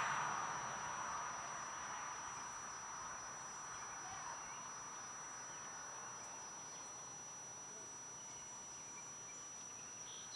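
Insects trilling steadily at a high pitch, faint, over soft outdoor background noise. A louder hiss fades away over the first couple of seconds.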